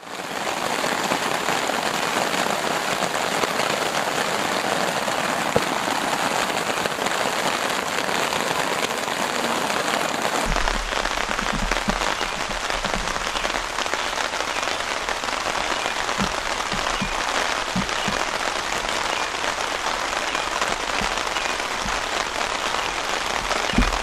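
Steady rain falling, an even hiss of drops. About ten seconds in a low rumble joins, with scattered soft low thumps.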